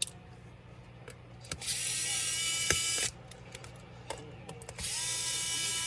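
Electric screwdriver running twice in short bursts of about a second and a half each, a steady motor whine with a click or two, driving screws out of a laptop's case.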